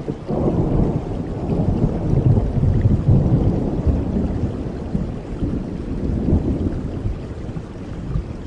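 Thunder rolling over steady rain: a low rumble swells just after the start, is loudest a couple of seconds in, and fades out near the end.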